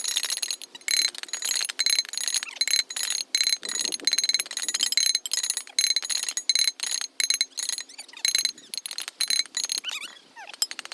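A small metal bell ringing high and bright, shaken or struck rapidly and unevenly in a run of many quick strikes. It thins out near the end.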